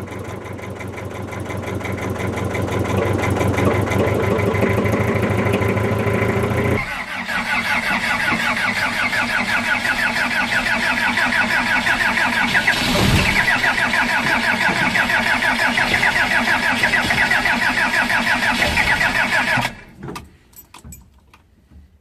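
Diesel engines cold-starting and running, their level rising over the first few seconds. About 7 s in the sound switches abruptly to a second diesel running with a fast, even pulse, with a brief loud burst about 13 s in. The engine sound cuts off sharply near the end, leaving a few fading knocks.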